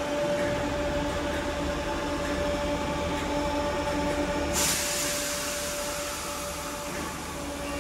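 Merseyrail electric train standing at an underground platform, its equipment humming steadily with a pulsing lower tone. A steady hiss switches on suddenly about halfway through.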